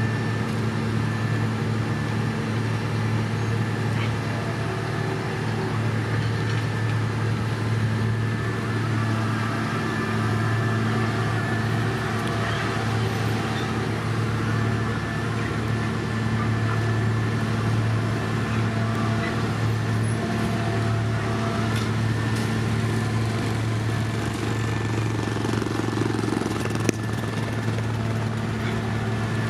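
Heavy diesel construction machinery running with a steady low engine hum that holds constant throughout, with a single short click near the end.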